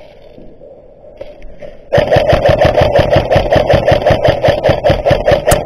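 Airsoft rifle firing a long full-auto burst: a loud, rapid, even run of shots starting about two seconds in and continuing without a break.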